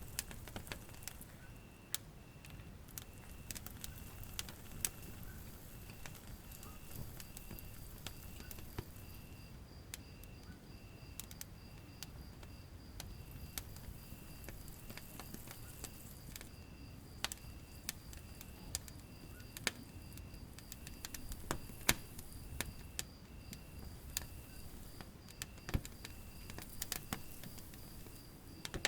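Wood fire burning in a fireplace: irregular crackles and pops over a low, steady rumble of flames. A faint high-pitched chirp repeats about twice a second throughout.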